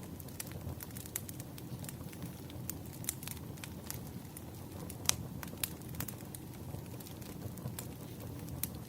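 Firewood burning: irregular crackles and pops over a low, steady rumble, with the sharpest pop about five seconds in.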